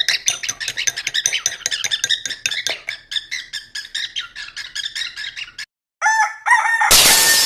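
Parrot giving a rapid run of short, chattering calls for several seconds, then after a short pause a few longer calls that bend in pitch, the last one over a burst of hiss near the end.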